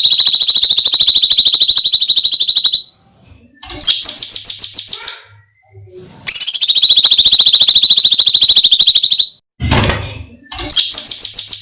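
Cucak cungkok giving its shrill, rapid trilled screech, the 'jeritan' call used in birdsong masteran recordings. Long phrases of about three seconds alternate with short ones of about a second, and there is a brief dull thump just before the last phrase.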